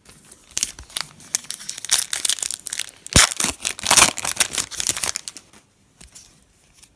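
Foil trading-card pack being torn open and crinkled, a dense run of crackling rustles with a sharp snap about three seconds in, fading to faint rustles of cards being handled near the end.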